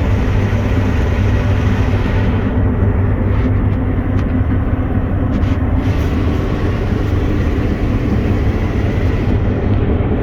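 Combine harvester running steadily while harvesting wheat, a constant deep machine drone heard from inside the closed cab.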